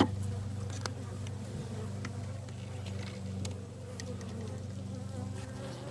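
Honeybees buzzing around an open hive in a steady hum, with a sharp click at the start and a few fainter clicks after.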